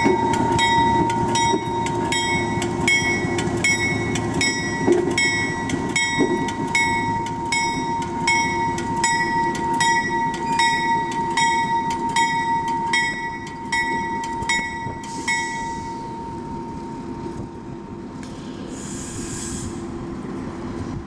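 Railroad crossing bell ringing about twice a second over the rumble of a train, with a steady tone running under it. The bell stops about 16 seconds in, and a short hiss comes near the end.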